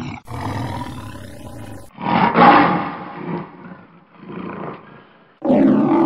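Male lion roaring in a series of calls: a long one, then the loudest about two and a half seconds in, tailing off into shorter, weaker calls, then another loud one starting near the end.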